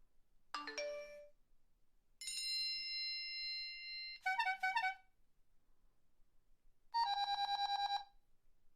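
A series of electronic alarm or ringtone tones. First a quick falling chime, then a steady beep held for about two seconds, a short warbling trill, and finally a rapid ringing trill lasting about a second.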